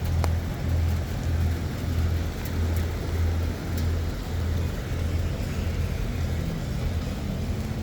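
Outdoor festival ambience: a steady hiss of background noise under a low bass beat that pulses evenly a little under twice a second.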